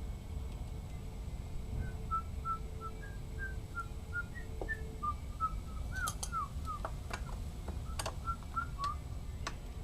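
A person whistling a tune in short, quick notes, with a few sharp light clicks in the second half.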